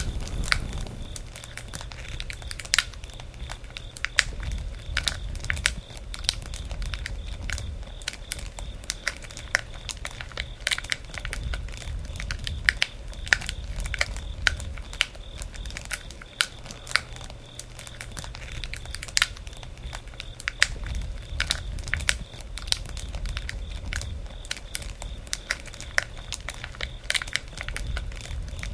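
Wood bonfire crackling, with frequent irregular sharp pops and snaps over a low, steady rumble.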